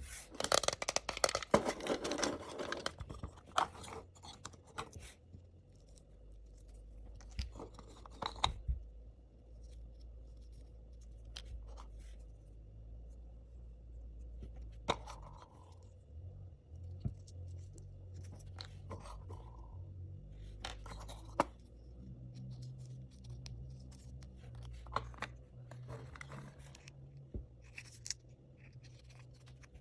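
Packaging being cut and torn open with dense crinkling for the first few seconds, then scattered small clicks and taps as a miniature plastic toy fridge and its tiny contents are handled, over a low steady hum.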